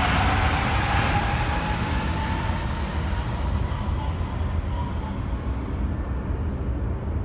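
Yurikamome rubber-tyred automated guideway train with a Mitsubishi IGBT VVVF inverter pulling away. The inverter whine rises in pitch over the first couple of seconds as it accelerates, and the running noise fades as the train recedes, leaving a low steady rumble.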